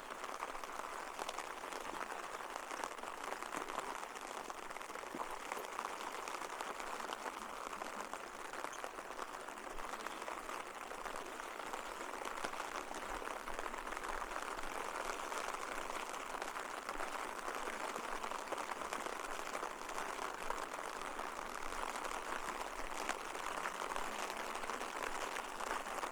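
Steady rain pattering, a dense even hiss with many small drop ticks.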